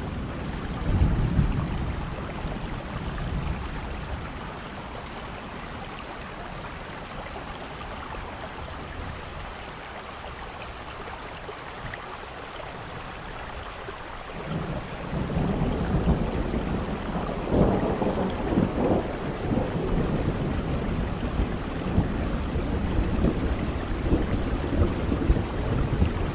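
Steady rain with thunder. A short low rumble comes about a second in, and a longer, louder roll of thunder builds from about halfway through and rumbles on to the end.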